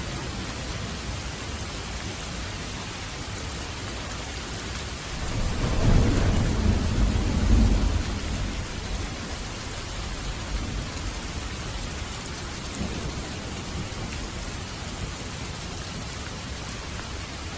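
Steady rain falling, with a low rumble of thunder that swells about five seconds in and dies away by about eight seconds.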